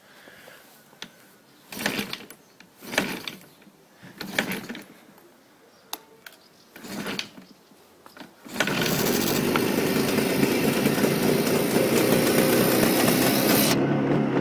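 Jawa 638's two-stroke twin engine being cold-started: several short bursts as it is kicked over, then it catches about eight and a half seconds in and keeps running steadily.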